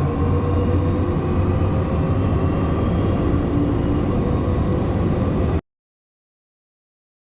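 Bugatti Chiron Super Sport's quad-turbo W16 engine running hard under acceleration, a steady low rumble with a held pitch. It cuts off suddenly about five and a half seconds in, followed by silence.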